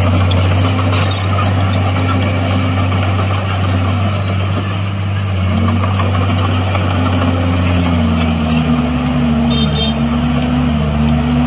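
Heavy diesel engine of construction machinery running steadily with a deep drone, its pitch dropping slightly about eight seconds in.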